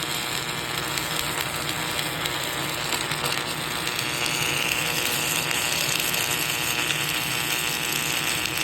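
Submerged arc welding in progress: a steady, dense crackling hiss, with a high steady whine joining about four seconds in.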